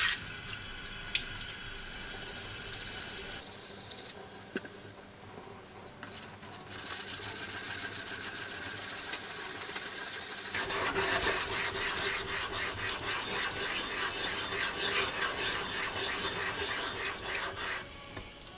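Black silicon carbide dressing stone scraping across a sharpening stone to flatten it: a gritty, rasping scrape. For the second half it comes in repeated back-and-forth strokes.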